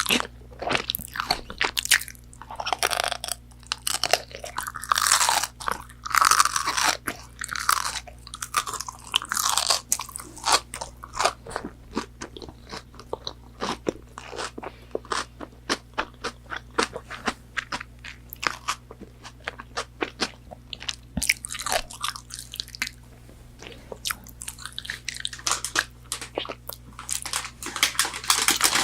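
Close-miked crunchy biting and chewing of McDonald's fried food. It runs in louder crunchy spells over the first ten seconds and again near the end, with softer chewing and mouth clicks in between.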